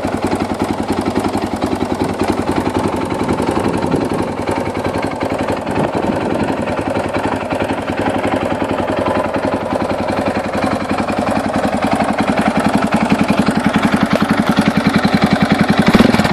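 KTM 530 enduro bike's single-cylinder four-stroke engine idling cold, not yet warmed up, with a steady, even beat through its aftermarket silencer. It gets slightly louder over the last few seconds.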